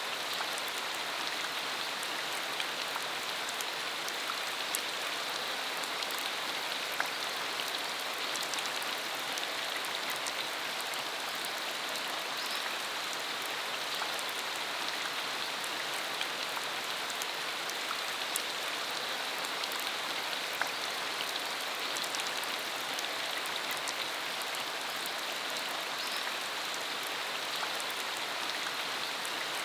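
Steady rain falling on a dirt road: an even hiss with many scattered sharp drop ticks.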